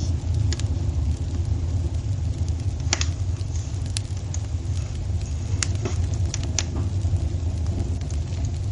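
Wood fire crackling in a fireplace: a steady low rumble of the flames with a handful of sharp, separate pops over several seconds.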